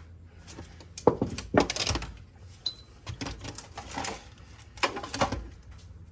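Metal hand tools clanking and clinking as they are pushed aside and rummaged through, in three clusters of clatter.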